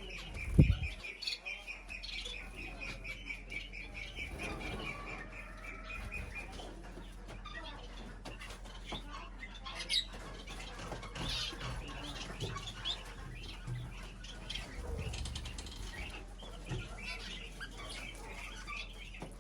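Small birds chirping and fluttering: a rapid, even high trill for about the first six seconds, then scattered chirps and rustling. A loud low thump sounds about half a second in.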